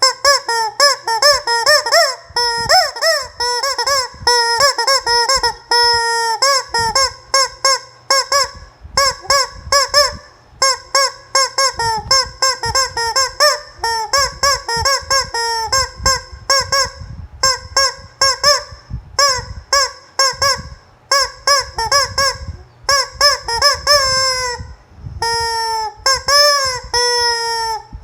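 A chicken giving a long run of short, squeaky honking calls that sound like a squeezed rubber toy, each call rising and falling in pitch, about two to three a second with brief pauses.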